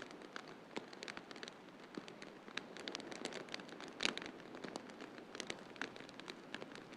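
Wood fire in a fireplace crackling and popping irregularly over a steady hiss of snowstorm wind, with one louder pop about four seconds in.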